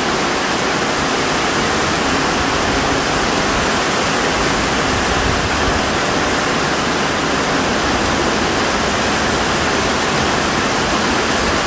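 Heavy downpour of rain: a steady, unbroken, loud rush of water.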